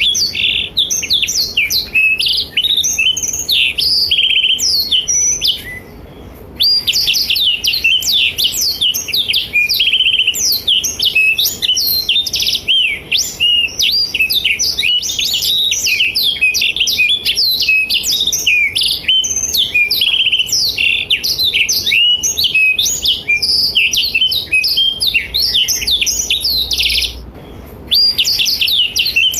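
Black-throated canary (blackthroat) singing vigorously: a long, fast warbling run of rapid high chirps and trills, breaking off briefly about six seconds in and again near the end before resuming.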